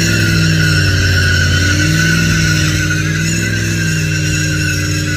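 Engine held at high revs during a burnout, with spinning tyres squealing steadily.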